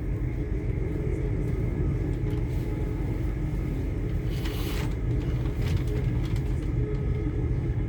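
Steady rumble of a moving passenger train heard from inside the carriage, with a brief hiss about halfway through.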